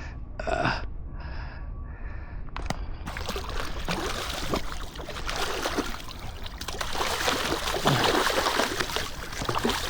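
Water splashing and trickling as a hooked steelhead thrashes at the surface while it is brought in, with a sharp breath near the start.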